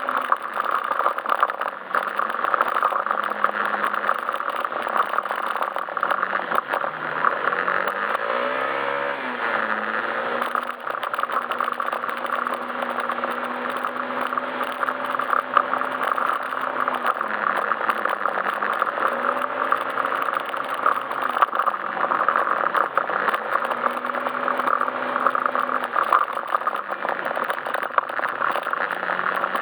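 Yamaha Majesty S scooter's single-cylinder engine running under way, its pitch holding steady and dipping and recovering several times as the throttle is eased off and opened again, over steady road and wind noise.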